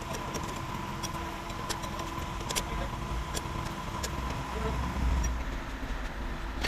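Truck engine idling with a steady low rumble and a thin high whine that fades out about four seconds in. Scattered light ticks sound over it.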